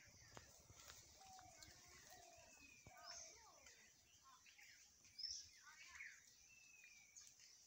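Faint birdsong in woodland: several birds calling with whistled, falling notes and quick chirps, over a steady high hiss.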